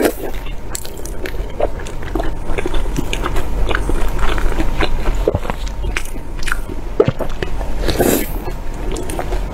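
Close-miked eating: wet chewing and mouth clicks as a person chews a soft rolled food, with a louder bite about eight seconds in.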